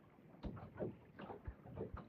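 Water slapping against the hull of a small boat, with a few irregular low knocks.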